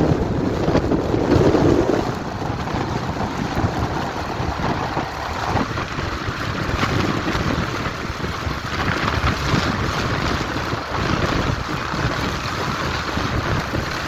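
A heavy truck running under strong wind noise on the microphone, loudest in the first two seconds, then a steady rush.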